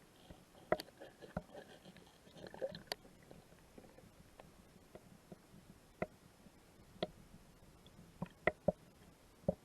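Faint, scattered small knocks and clicks, about ten spread irregularly with a quick cluster of three near the end: gear being handled in a kayak.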